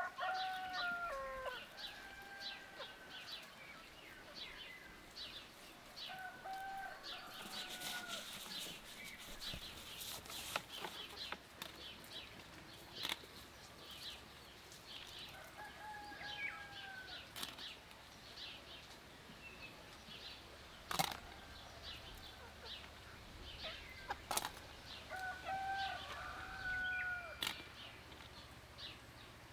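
Roosters crowing several times, each crow held then falling away at the end, with small birds chirping throughout and a few sharp clicks.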